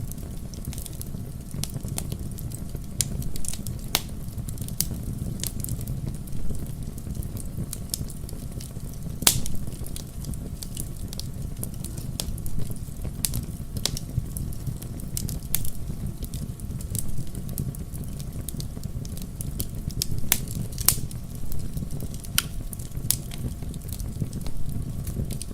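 Wood fire crackling: a steady low rumble of flames with frequent sharp, irregular pops and snaps, a few louder than the rest.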